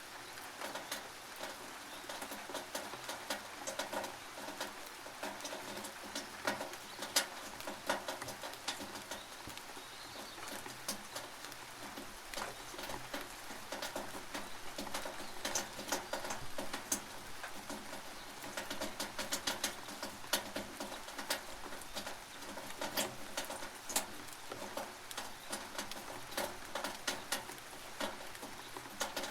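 Rain dripping and pattering on a tin roof: irregular sharp drop clicks of varying loudness over a steady rain hiss.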